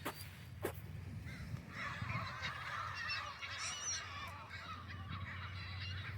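A flock of birds calling over one another in a dense, squabbling chorus that starts about one and a half seconds in and fades out near the end.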